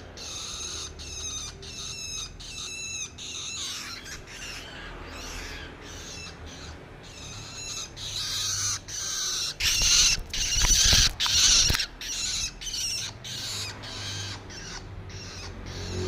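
Young long-tailed shrike giving many short, harsh, scratchy calls in quick succession, loudest about ten to twelve seconds in.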